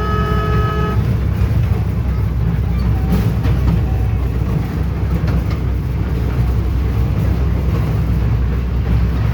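Train running with a steady low rumble; its horn, a chord of several notes, is held and cuts off about a second in.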